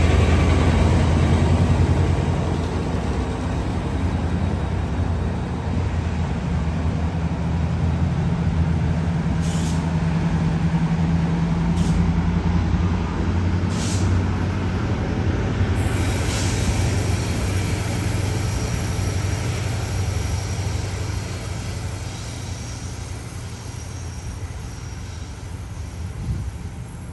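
GO Transit diesel commuter train running past, its engine drone strong at first and fading as the train moves away. There are a few sharp clicks partway through, then a high hiss comes in, and the sound slowly dies down.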